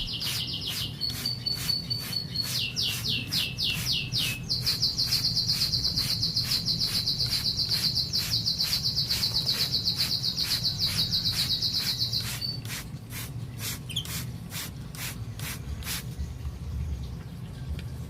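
Young Merlok canary, about three months old, singing in rapid trills: a few short rolls, then one long, fast, even trill of about eight seconds that stops suddenly, followed by a few fainter chips.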